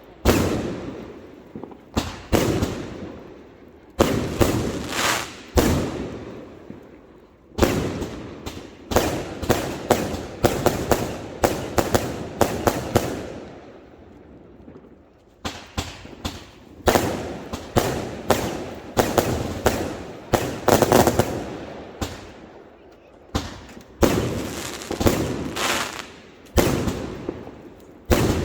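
Fireworks bursting: clusters of sharp bangs in quick succession, each trailing off in a fading rumble, with a brief lull about halfway through before the bangs pick up again.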